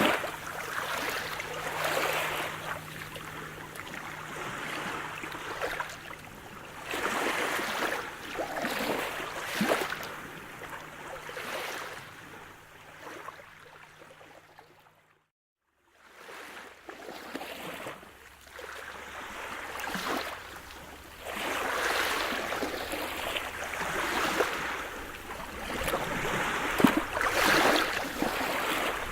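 Sea surf: waves washing in and drawing back in repeated surges, with a faint low steady hum underneath in the first half. The sound cuts out completely for about a second midway, then the surf comes back.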